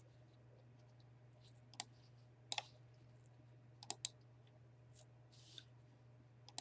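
Near silence with a faint low hum and a few sharp computer mouse clicks, a pair about two and a half seconds in and another pair about four seconds in.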